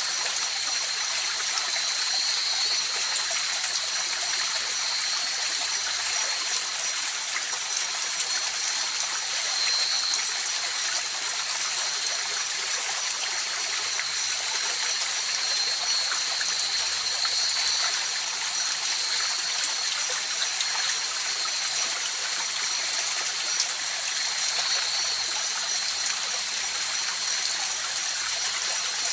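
Mountain river flowing over rocks in a steady, even rush of water. A faint steady high-pitched tone runs over it throughout.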